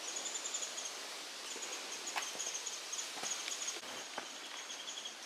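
A high-pitched animal trill in quick pulsing chirps over a steady outdoor hiss, with a few soft taps.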